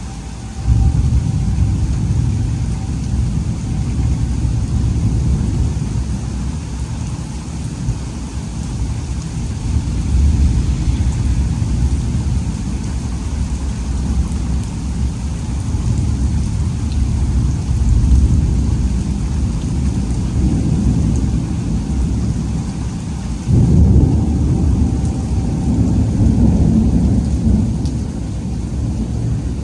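Thunder rumbling over steady rain from a supercell thunderstorm. The rumble swells and fades, with a sudden loud peal just after the start and another about three quarters of the way through.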